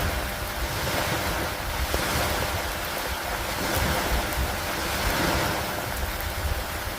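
Steady rain over open water with wind, the noise swelling and easing every couple of seconds over a low, fluttering rumble of wind on the microphone.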